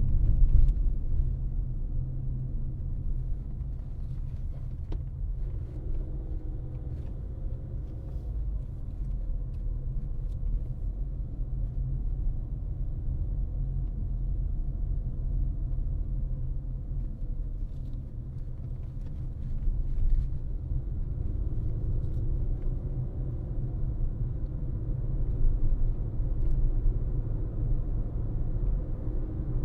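Car driving along a road: a steady low rumble of tyres and engine, with a faint engine tone that rises and falls with speed.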